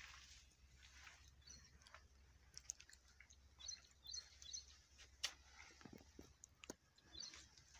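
Near silence with faint, scattered chirps of small birds and a few soft clicks; no engine is running.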